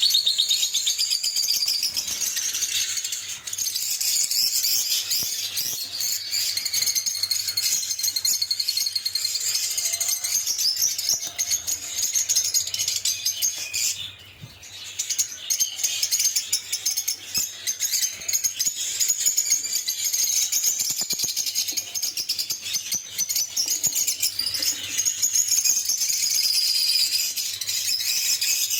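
Lovebirds chirping and chattering in a dense, rapid, high-pitched stream, with a brief break about halfway through.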